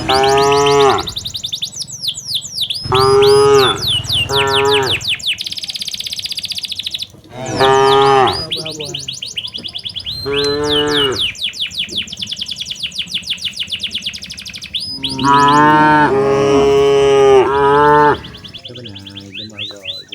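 Cattle mooing: about six long moos, some overlapping near the end, over a steady fast high chirping.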